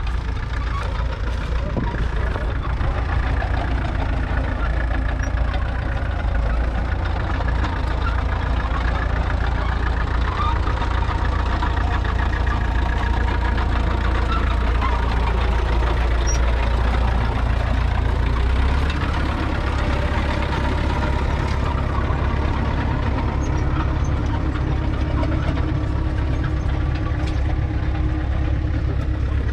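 Fendt 936 Vario tractor's 9.0-litre six-cylinder diesel running steadily under load, its pitch drifting gently up and down. The deep drone changes character about two-thirds of the way through.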